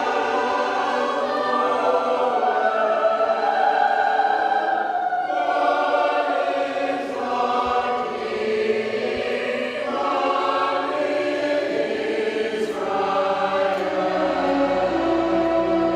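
Choir singing a sacred piece in long held chords that change every second or two. A low accompaniment comes in near the end.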